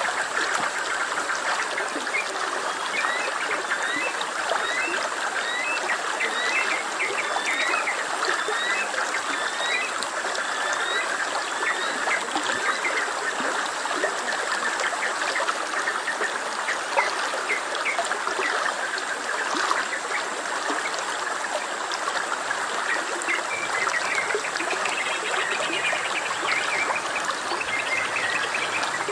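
Stream water flowing and trickling steadily. Through the first half there is a series of short, high, repeated chirps.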